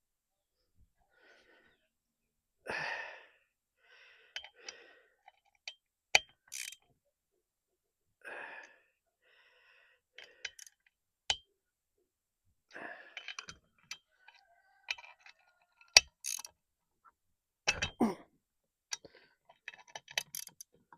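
Intermittent sharp clicks, clinks and knocks of hand tools and metal parts being handled during a water pump job on a 15 hp Chrysler outboard, with a few breathy exhales between them. The sharpest click comes about three-quarters of the way through.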